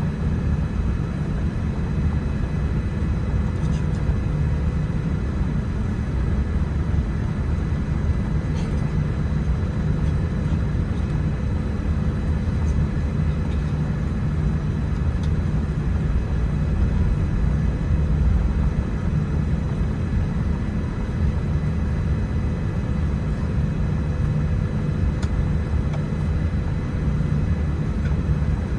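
Steady aircraft cabin noise aboard a Boeing 787-10: an even low rumble with faint steady hums above it and a few light ticks.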